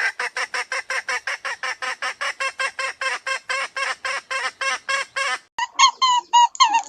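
A bird's rapid run of repeated calls, about six a second, breaking off after about five seconds. A different series of clearer, pitched calls follows, about three a second.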